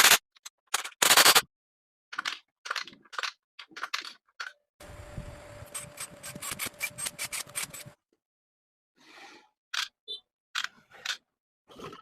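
Irregular scraping and rubbing strokes of hand work. In the middle, about three seconds of a steady hum with rapid ticking.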